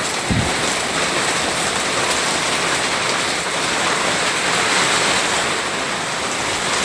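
Heavy rain pouring down steadily in a thunderstorm, with a brief low thump just after the start.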